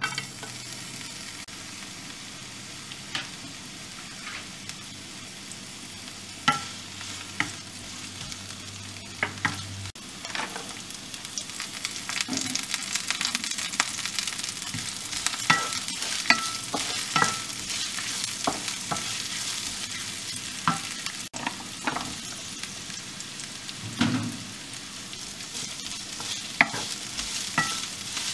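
Chopped onion, garlic, green chillies and carrot sizzling in hot oil in a non-stick frying pan. A wooden spatula stirs them, making scattered sharp knocks against the pan. The sizzle grows louder partway through.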